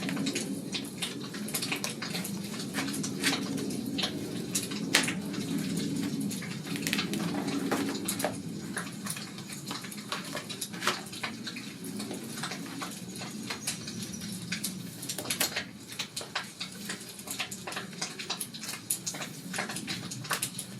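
Fireplace crackling: irregular pops and snaps over a low rumble that eases off about halfway through.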